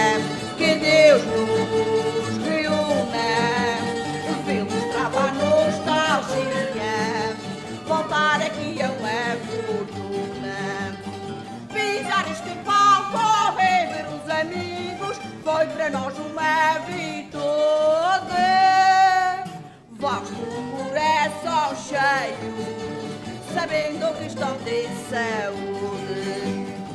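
Live folk music from a carnival bailinho: a small band of plucked string instruments carrying a melody, with singing. About two-thirds of the way through, a long held note ends in a brief break before the music picks up again.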